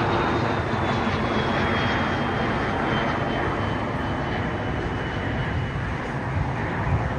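Jet airliner's engines, a steady rushing roar with a faint high whine that slowly falls in pitch as the aircraft passes and gradually fades, heard through heavy rain.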